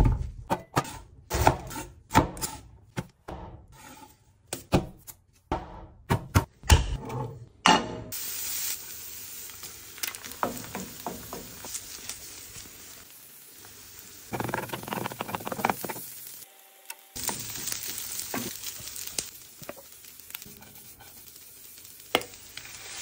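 A quick run of sharp knocks and taps for the first third, then food sizzling in a hot pan as chicken fried rice is stir-fried and stirred.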